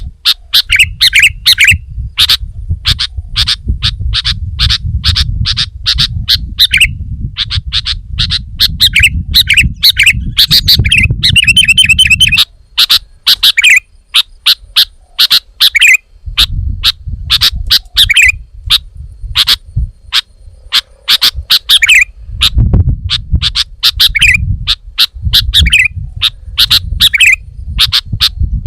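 Sooty-headed bulbul (kutilang) calling almost without pause: rapid sharp chirps at several a second, mixed with some longer curved notes. A low rumble runs underneath and drops out for a few seconds about halfway through.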